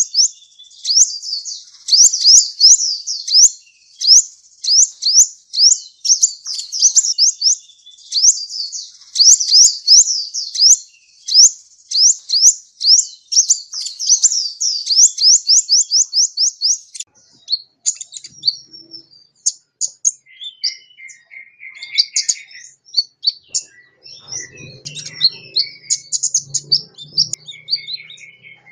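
A sunbird ('kolibri') singing: long runs of rapid, high-pitched twittering notes for the first half, then more broken, varied chirps and short phrases. A faint low hum comes in briefly near the end.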